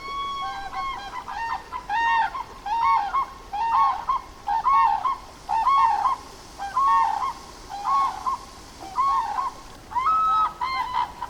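A bird calling over and over, about one call a second, each call a short arched note with a steady high tone held beneath.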